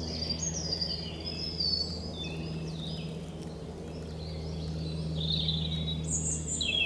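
Several birds singing, with many short chirps and whistles overlapping, over a steady low hum.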